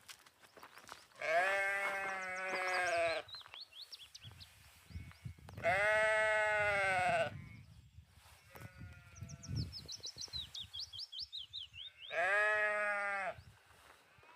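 Lambs bleating: three long, loud calls a few seconds apart. Faint quick high chirping runs in between.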